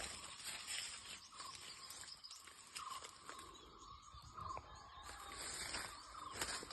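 Faint rural outdoor ambience: a steady insect drone, with a short rising call repeating every second or two and a few light clicks.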